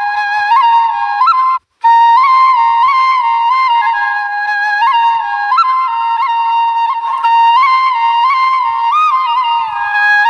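Background music: a solo flute melody held on a few notes with quick ornamental turns, briefly breaking off about a second and a half in.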